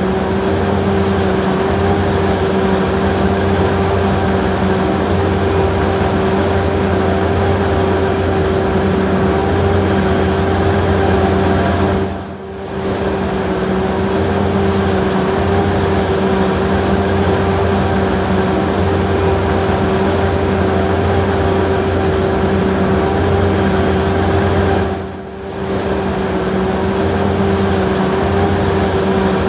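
John Deere self-propelled forage harvester running steadily under load while chopping corn silage: a constant engine and cutterhead drone with a held hum. It briefly drops away and comes back twice, about 12 and 25 seconds in.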